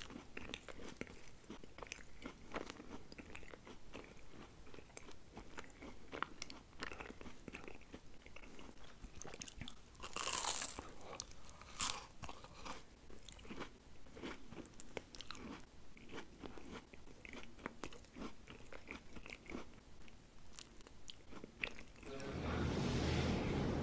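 Close-miked chewing of breaded McDonald's chicken nuggets: soft crunches and wet mouth clicks, with two louder crunches in the middle. Near the end a louder steady noise sets in.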